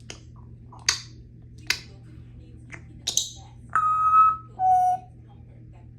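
Congo African grey parrot making three sharp clicks and a crackly chirp, then a clear two-note whistle, the second note lower than the first.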